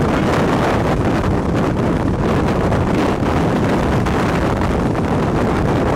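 Strong wind blowing hard across the microphone: a loud, steady rush of noise.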